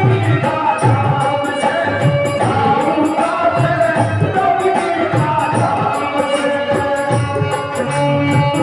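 Live Indian devotional folk music played by a band: a sustained, wavering melody over regular drum strokes and a steady high ticking percussion beat.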